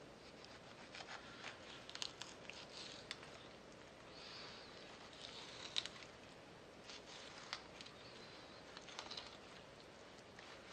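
Faint scraping and scattered light ticks of a kitchen knife cutting into a flounder along the fin and bones, the blade catching on bone and the cutting board.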